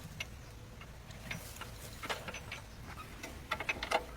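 A series of light, irregular clicks and taps, coming thicker and louder near the end, over a steady low hum.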